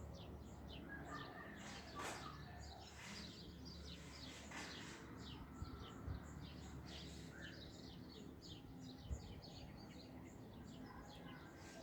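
A flock of small wild birds chirping, many short quick chirps overlapping without pause.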